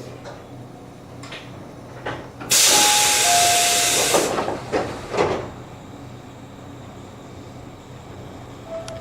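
Tobu electric train's compressed air letting go in a loud hiss for under two seconds, with a short two-note tone over it, followed by a few clunks, over the train's steady low hum.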